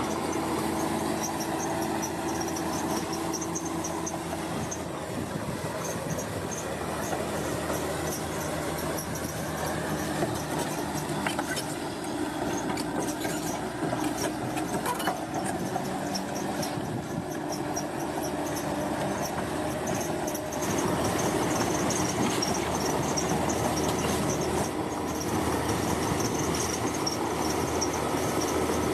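Heavy earthmoving machinery running steadily, with a metallic squeal like steel crawler tracks. It gets a little louder about two-thirds of the way through.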